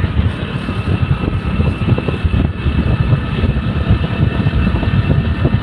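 Low, irregular rumble of a vehicle in motion, with a faint steady whine above it.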